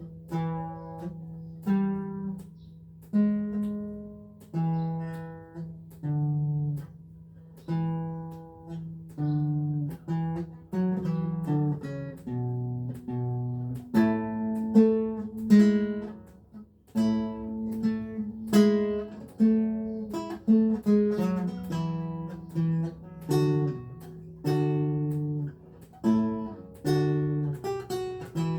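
Renaissance lute played solo in a slow, unhurried piece. Plucked chords and single notes come about once a second, each left to ring and fade.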